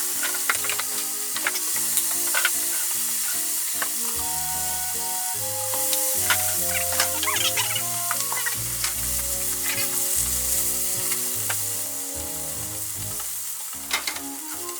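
Food sizzling in a hot oiled frying pan, stirred with a utensil that gives scattered clicks and scrapes against the pan, over soft background music.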